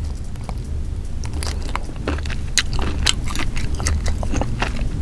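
Close-miked mouth sounds of biting and chewing grilled squid: wet clicks and smacks that begin about a second and a half in and come thick and fast after. A steady low hum runs underneath.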